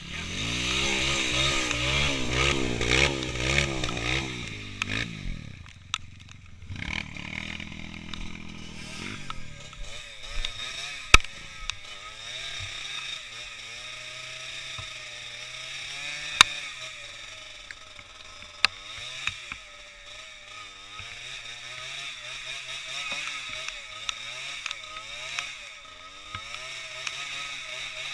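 Small off-road motorcycle engine revving unevenly, loud for the first few seconds, then running at lower, wavering revs, with a few sharp knocks in between.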